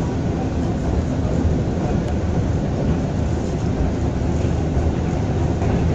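Passenger train running at speed, heard from inside the carriage: a steady, low running noise of wheels on rail and the rocking coach.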